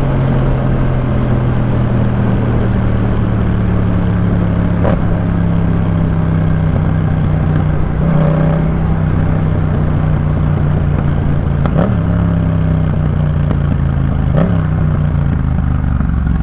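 2018 Yamaha MT-07's parallel-twin engine through a Jeskap K4 aftermarket full exhaust, running at a steady low note, with a few brief clicks and small rises in pitch along the way.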